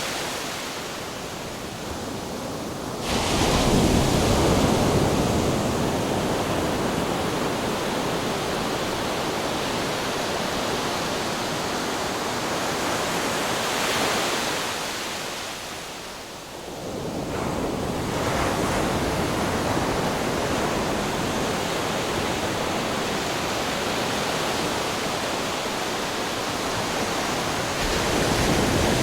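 Ocean waves crashing on rocks: continuous surf noise that surges with a heavy wave about three seconds in, eases off a little past the middle, then builds again with further waves near the end.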